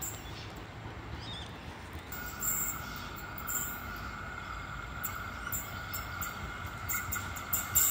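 Adelaide Metro diesel railcar approaching on curved track, a steady low rumble with a steady high-pitched whine from the wheels and rails setting in about two seconds in.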